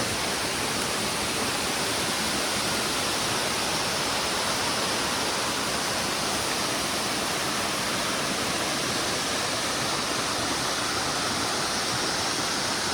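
Steady, even rushing of water with no distinct events: heavy tropical rain and falling water around the trail.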